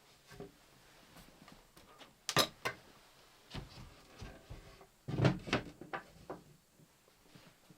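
Scattered clicks and knocks of things being handled in a small space: two sharp clicks about two and a half seconds in, and a heavier cluster of knocks and a thump around five seconds in.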